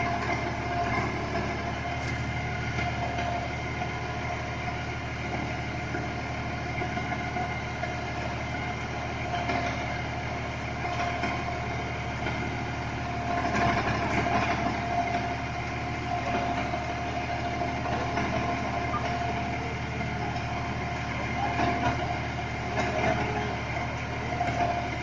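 Tractor diesel engine running steadily, with a constant high whine over it and small swells in level now and then.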